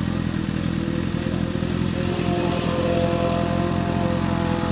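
Motorcycle engine running steadily at an even speed, its pitch holding nearly constant with only a slight rise.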